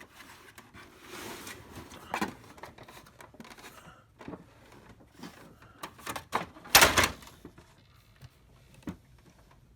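Scattered clicks and knocks of a printer's plastic housing being handled and pried at, with a louder clatter about seven seconds in.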